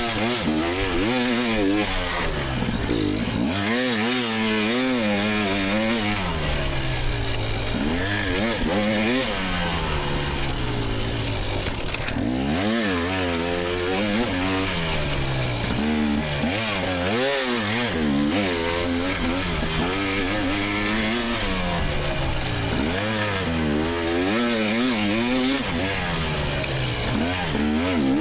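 A 2024 GasGas EX300's two-stroke 300 cc dirt bike engine being ridden hard. The revs climb and drop every second or two with the throttle and gear changes.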